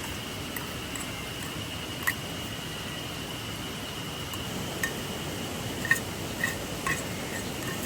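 Steady rush of a flowing river, with a few short sharp clicks and pops scattered through it, the loudest about six seconds in.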